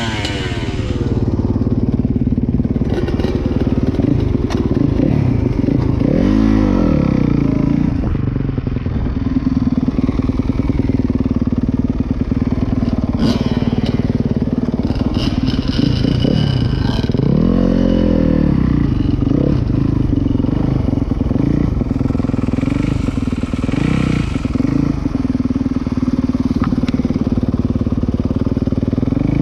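Dirt bike engine running steadily and loudly, with two brief revs that rise and fall in pitch about six and seventeen seconds in.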